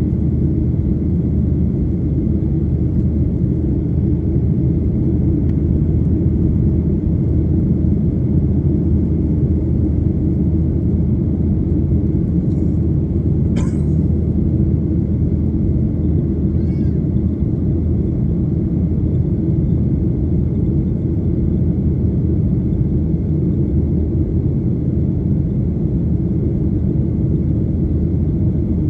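Airliner cabin noise inside a Ryanair Boeing 737 in flight: a steady, loud low rumble of the jet engines and airflow. There is a single short click about halfway through.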